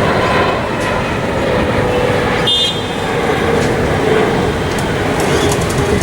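Steady, loud vehicle noise, with a brief high toot about two and a half seconds in.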